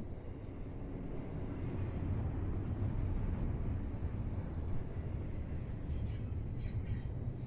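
Low, steady rumble of a train rolling on the tracks, building a little over the first couple of seconds, with a few faint clicks near the end.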